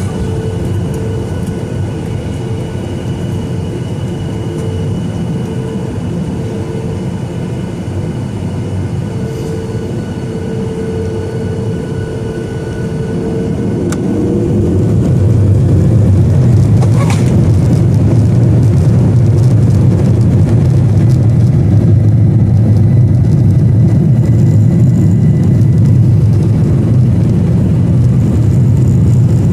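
Boeing 737-900ER's CFM56-7B jet engines heard from inside the cabin: a steady hum with a held tone, then about halfway through the engines spool up and the sound grows louder into the low rumble of the takeoff roll.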